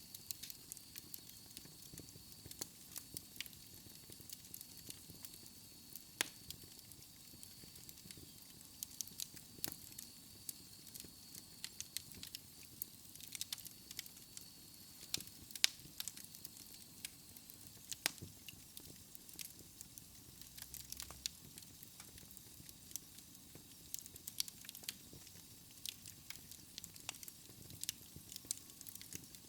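Wood fire in a fireplace crackling, with irregular sharp pops over a soft steady hiss. A faint thin high whistle runs through the first half and fades away a little past the middle.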